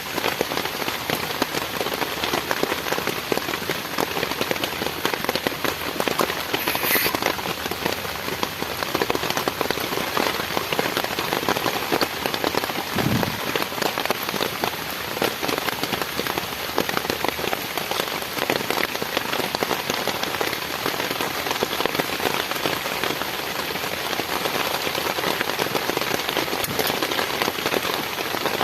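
Heavy rain falling steadily, a dense patter of drops, with a brief low thump about thirteen seconds in.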